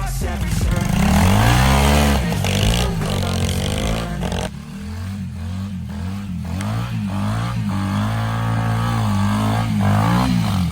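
Motorcycle engine revving up and down as it is ridden, its pitch rising and falling several times, briefly easing off about four and a half seconds in.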